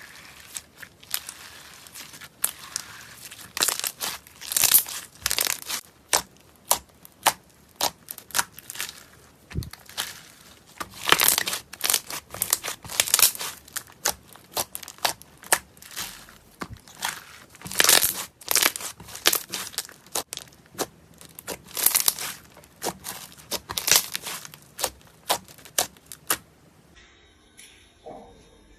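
Slime being squeezed and played with, giving a dense run of sharp crackling pops and clicks that come in uneven clusters. The crackling stops about two seconds before the end.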